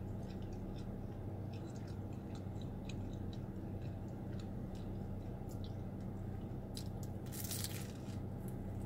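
Close-up mouth sounds of a person chewing a bite of deep-fried egg roll, with many small crunches and wet clicks, then a louder crunch as she bites into the crisp egg roll wrapper near the end. A steady low hum runs underneath.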